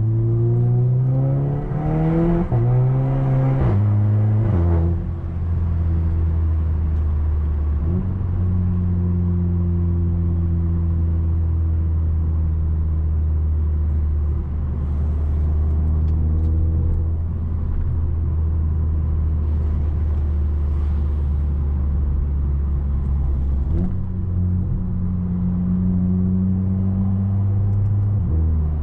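Audi A3 2.0 TFSI turbocharged four-cylinder, with a 2.5-inch downpipe and catback exhaust, heard from inside the car. It accelerates through three quick S-tronic dual-clutch upshifts in the first five seconds, then settles into a steady low drone while cruising, and pulls again to one more upshift near the end.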